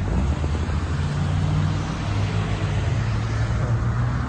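Diesel engine of a Mack Granite roll-off truck running, a steady low drone that shifts slightly in pitch about a second in.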